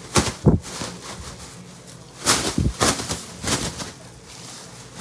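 Short bursts of rustling and clattering from food packages and containers being handled, in two clusters: one at the start and another a couple of seconds later.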